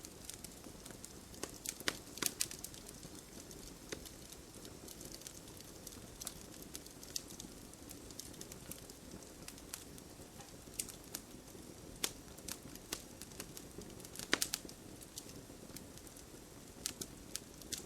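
Wood campfire crackling: irregular sharp pops and snaps over a steady low hiss of the burning fire, with the loudest pops about two seconds in and again late on.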